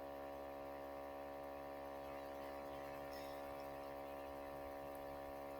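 Faint, steady electrical mains hum with a stack of buzzing overtones and light hiss, unchanging throughout.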